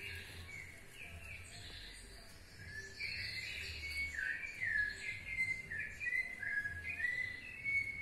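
A songbird singing: quick runs of short whistled notes that step and slide down in pitch, louder from about three seconds in.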